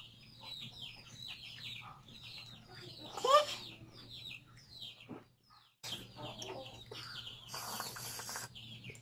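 Birds peeping in a rapid string of short, high, falling calls, several a second, with a child's voice rising briefly about three seconds in.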